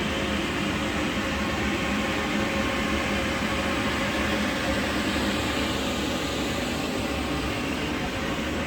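A machine running steadily: a continuous noisy drone with a faint low hum in it, unchanging throughout.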